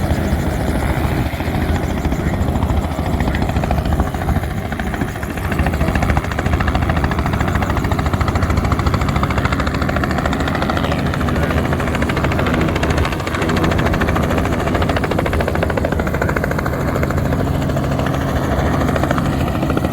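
Aircraft engine drone, steady and loud, its low pitch shifting a little now and then.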